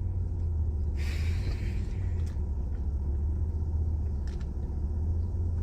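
Steady low rumble of a car idling, heard from inside the cabin, with a brief rustling noise about a second in.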